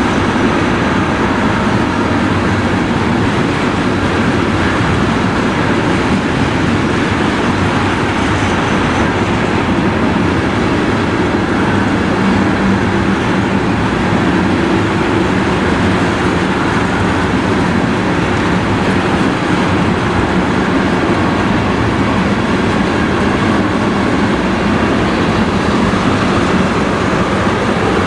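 Freight train of tank cars rolling past: a steady, unbroken noise of steel wheels running on the rails.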